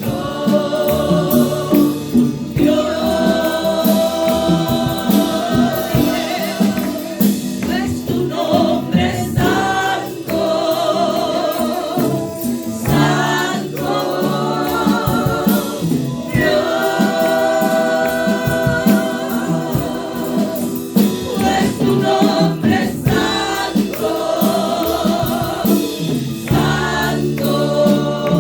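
Gospel worship music with a choir singing long, wavering held notes.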